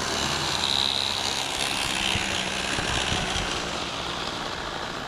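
Radio-controlled model Cessna airplane flying by: the high whine of its motor and propeller drops in pitch about two seconds in, over a steady hiss of wind noise.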